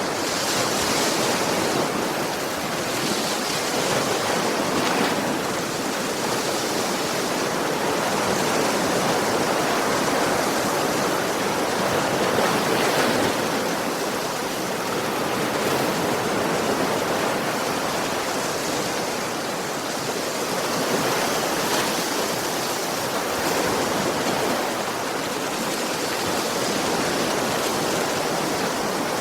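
Ocean surf: a continuous rush of waves breaking on a shore, swelling and easing slightly every few seconds.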